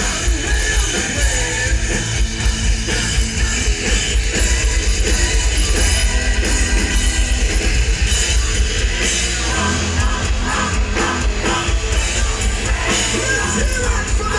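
Live heavy metal band playing: distorted electric guitars over a drum kit with a fast, steady bass-drum beat.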